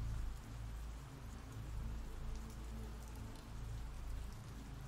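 Steady rain ambience: an even hiss of rainfall with scattered small drop ticks and a low rumble underneath.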